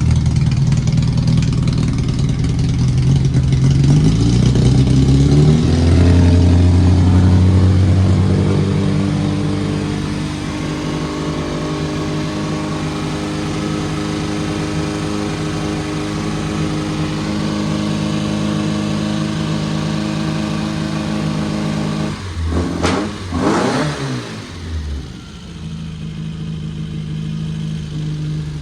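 Classic Austin Mini Cooper's A-series four-cylinder engine running while its distributor and throttle are adjusted. The revs rise about five seconds in and settle to a steady fast idle, with a brief unsteady stretch near the end before it evens out again. The engine sounds good now that it has been tuned.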